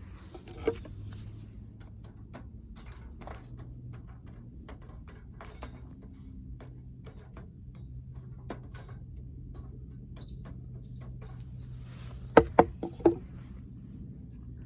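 Wood fire in a fire stand crackling, with scattered sharp pops. Near the end there is a quick run of four louder knocks.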